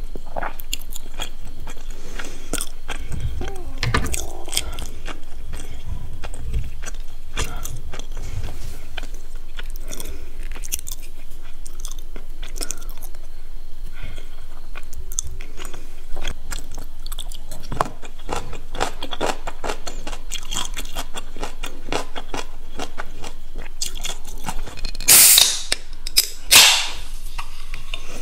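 A person chewing and crunching crisp fried food, a dense run of short crackles and crunches throughout. Two louder, sharp bursts of crunching come near the end.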